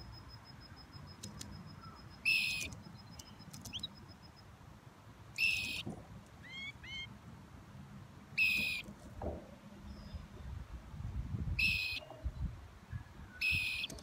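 A bird calling outdoors: five short, sharp, high calls spaced about three seconds apart, with a few faint rising chirps and a thin high trill in between.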